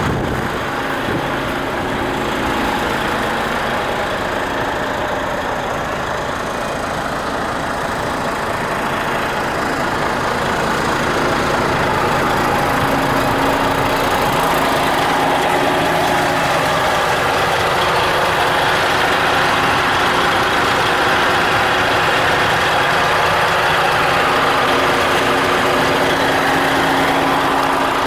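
Diesel engine of a DAF CF85 truck running steadily, a little louder from about a third of the way in.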